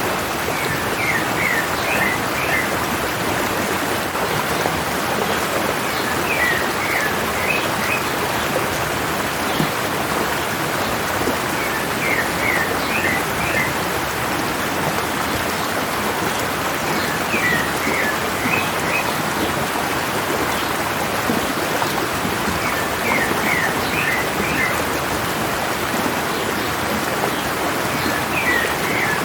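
Mountain stream running steadily, with a bird singing a short phrase of five or six quick chirping notes about every five and a half seconds.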